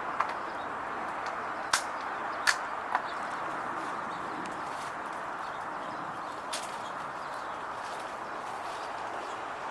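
Steady outdoor background hiss, broken by a handful of short sharp clicks or taps, most of them in the first three seconds.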